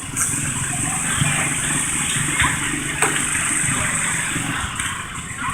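Garden tractor engine running steadily, a constant drone under a hiss.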